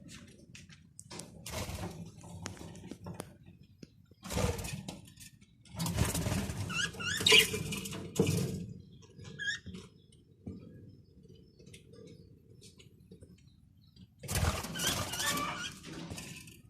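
Small pet birds in an aviary giving short high chirps, mixed with several bursts of rustling and scuffling.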